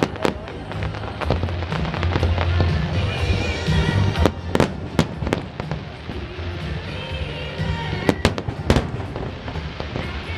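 Aerial fireworks bursting over disco music with a heavy bass beat. There are sharp bangs in two pairs, about four and a half and eight seconds in, with smaller crackling pops between them.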